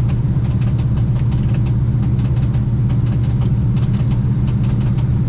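Car engine idling steadily: a low, even drone with a light, rapid ticking over it.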